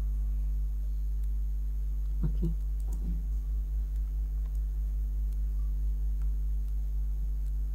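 Steady low electrical hum with a few steady overtones, carrying through the silence, with a few faint clicks from a computer mouse and a brief mouth sound about two seconds in.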